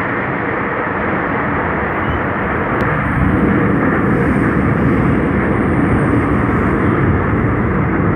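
Seoul Subway Line 5 train running through an underground tunnel: a steady rumble of wheels on rail and traction motors that grows a little louder about three seconds in.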